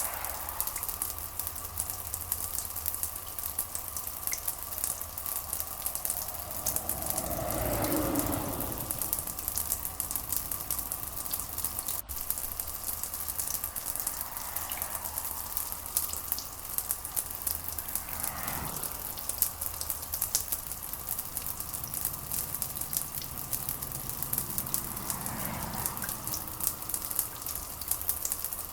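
Steady rain pattering, a dense fine crackle over a low rumble, with a few soft swells every several seconds.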